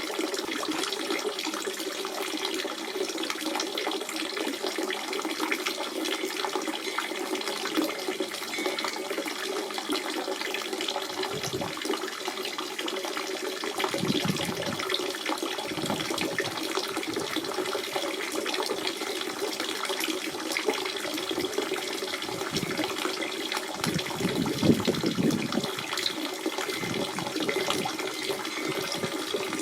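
Natural spring water running and trickling steadily, a continuous splashing flow with a few deeper gurgles now and then.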